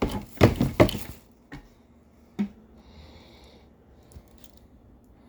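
Hard plastic knocks and clicks from handling a Shark Stratos vacuum's emptied dust bin while trying to free hair from the top. A quick cluster of sharp knocks comes in the first second, then two single clicks and a brief soft hiss.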